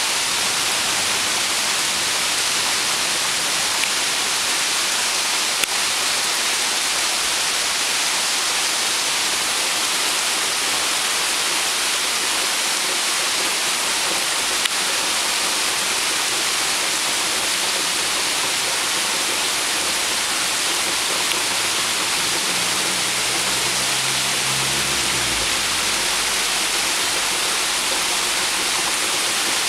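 Heavy rain falling on a small pond, a steady dense hiss of drops hitting the water.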